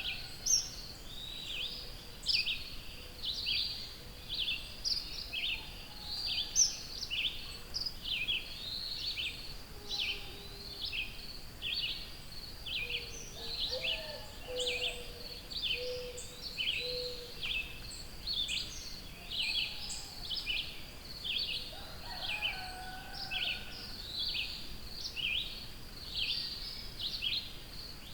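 Wild songbirds singing: a steady run of short, high chirps, about two a second, with a few lower, warbling calls now and then.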